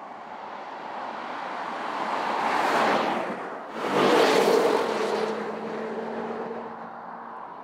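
Porsche Cayenne Turbo's twin-turbo V8 growing louder as the SUV comes up the road and passes close by, then pulling away with a steady engine note that fades.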